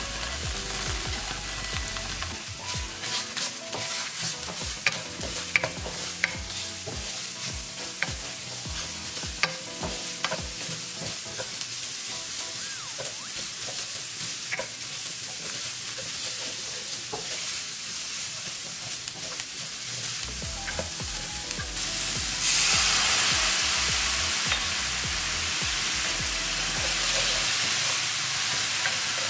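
Diced onion, ginger, garlic and scallion whites sizzling in oil in a nonstick frying pan, stirred with a wooden spatula that gives occasional taps and scrapes. About 22 seconds in, the sizzle jumps to a louder hiss as cooking wine hits the hot pan.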